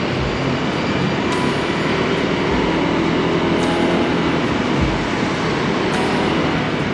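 Steady riding noise from a Honda Click 160 scooter moving in traffic: its single-cylinder engine running under wind and road rush, at an even level.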